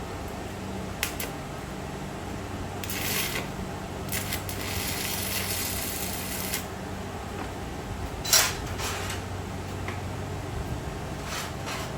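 Metal clanks and scraping from work on a steel smoker, with two short spells of hissing and one sharp clank a little past the middle, over a steady low hum.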